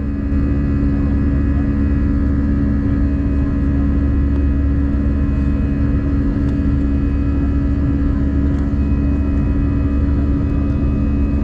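Jet airliner's engines running at steady power during take-off: a deep rumble with steady whining tones over it, neither rising nor falling.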